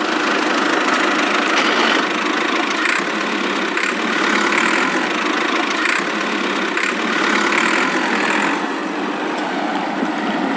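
A small motor running steadily, swelling slightly every second or two.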